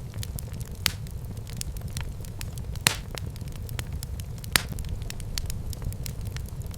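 Wood fire crackling in a fireplace: a steady low rumble of flames with frequent sharp pops, three of them louder, about a second in, near three seconds and past four and a half seconds.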